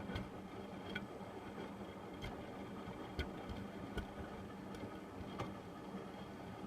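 Hotpoint washing machine in the wash stage of a cotton cycle, before any spin: a steady motor hum with irregular light clicks and knocks roughly once a second as the drum turns.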